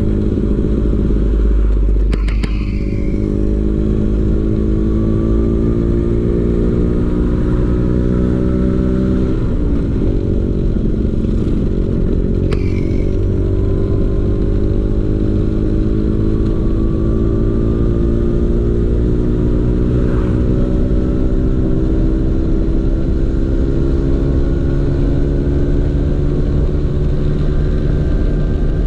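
Vespa PX 150's two-stroke single-cylinder engine running through a DRC Victory racing exhaust while riding, its pitch climbing slowly as it pulls. About a third of the way through the pitch drops and then climbs again, as at a gear change. A low rumble runs underneath.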